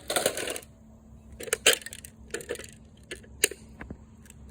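Parts of a Keurig coffee maker being pried and broken apart: a short rattle at the start, then a series of sharp, separate clicks and knocks.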